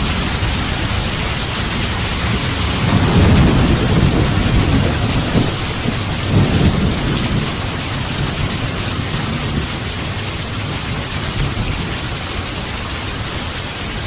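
Steady heavy rain with a roll of thunder that swells about three seconds in, peaks twice and rumbles away over several seconds.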